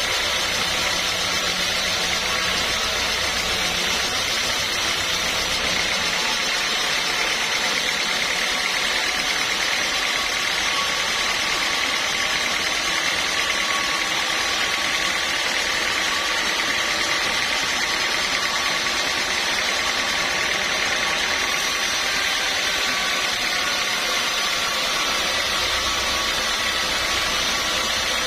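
Sawmill machinery running steadily: a constant mechanical noise with a few steady whining tones over it.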